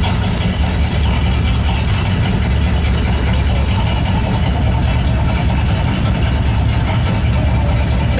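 Old Ford car engine idling steadily, with a loud, even low rumble.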